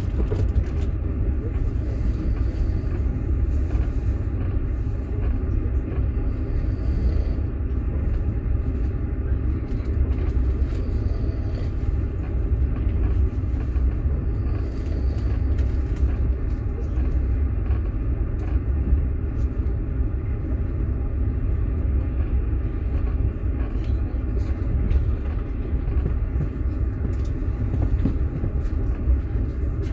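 Passenger train in motion, heard from inside a platzkart sleeping car: a steady low rumble of the carriage running on the rails, with a few faint scattered clicks.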